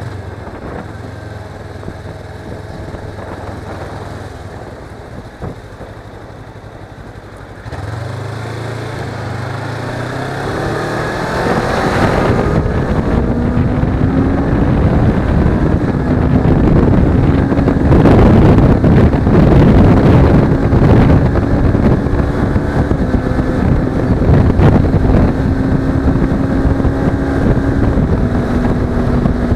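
Suzuki V-Strom 250's parallel-twin engine on the move: quieter and low at first, then about a quarter of the way in it gets louder and the engine pitch climbs as the bike accelerates. After that it runs at a steady pitch under loud wind noise on the microphone.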